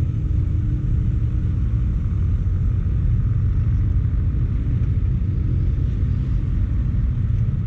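Steady low rumble of a car in motion, with no rise or fall in pitch.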